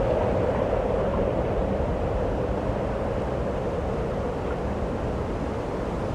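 Snowstorm wind blowing steadily: a continuous rushing noise with no gusts or breaks, easing slightly toward the end.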